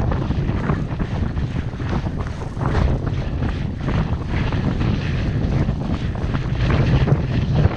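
Strong gusting wind buffeting the microphone: a heavy, continuous low rumble with irregular louder flurries.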